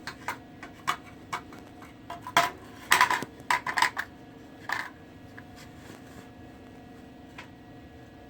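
Metal tools and parts being picked up and set down: a run of sharp clinks and knocks, thickest in the middle, then stopping, over a steady low hum.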